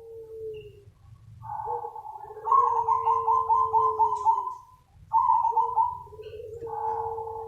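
Zebra dove (perkutut) cooing in repeated phrases, each a quick stutter of notes over a held lower note. The longest phrase runs as a rapid string of about eight notes.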